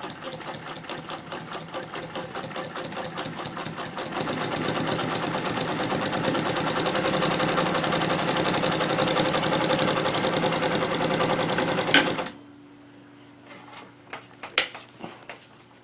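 Bernina Chandler 217 industrial sewing machine sewing a 6 mm zigzag stitch through two layers of 1000 denier Cordura, its needle running in a fast, even rhythm that picks up speed about four seconds in. It stops about twelve seconds in with a sharp click, leaving a low hum and a few light clicks.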